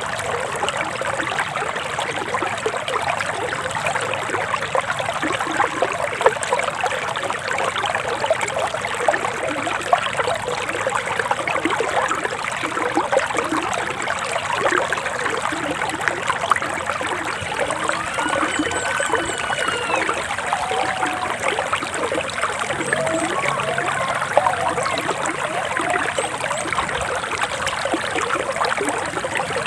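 Forest stream flowing and trickling steadily. About two-thirds of the way through, a bird gives one long arched whistle over the water, followed by a few faint short notes.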